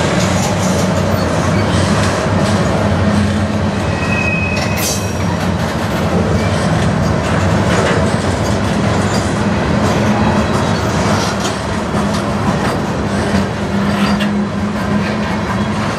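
Freight cars rolling past at close range: a steady rumble of steel wheels on rail with clicking over rail joints. A brief wheel squeal about four seconds in is followed by a sharp clank.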